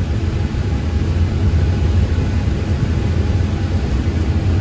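Heavy farm machinery engine running steadily, a loud low drone with no change in pace.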